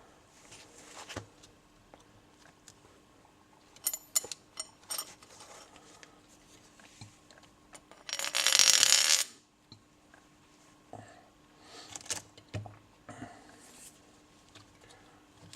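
Metal tools and parts clinking and scraping as they are handled during work on a motorcycle's steering head, in scattered clicks and short ringing clinks. Just past halfway, a loud hiss lasts about a second and cuts off.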